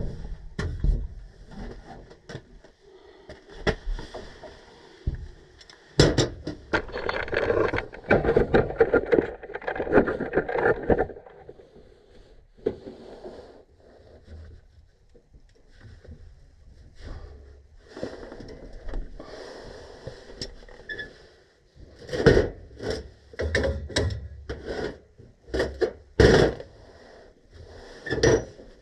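Tools and parts being handled during hands-on repair work: scattered clicks and knocks, a few seconds of steady scraping and rubbing around the middle, then a run of sharp knocks near the end.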